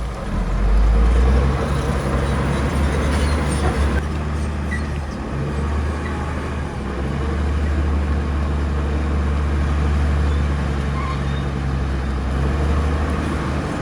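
Heavy diesel engine of earthmoving machinery running steadily, a low drone that swells briefly about a second in.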